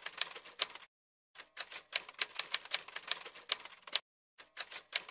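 Rapid, irregular sharp clicking, like typewriter keys, several clicks a second. It comes in runs that stop dead twice for about half a second.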